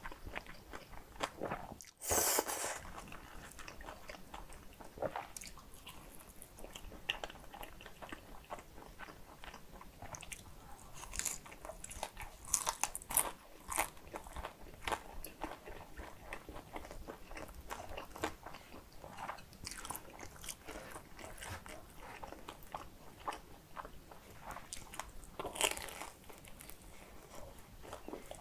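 Close-miked chewing of a mouthful of kimchi bibim guksu (thin noodles in spicy sauce with chopped kimchi), with many small wet clicks and crisp crunches as the kimchi is bitten. There is a short louder burst about two seconds in, and another near the end.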